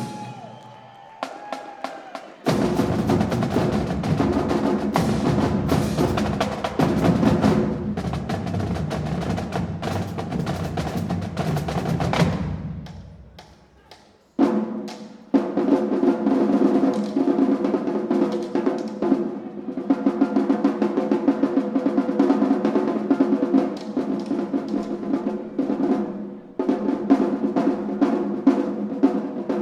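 Marching drumline playing, with snare rolls and bass drums: a loud passage starts about two seconds in and fades out around halfway. After a brief break it starts again, with dense rapid strokes and pitched drum tones.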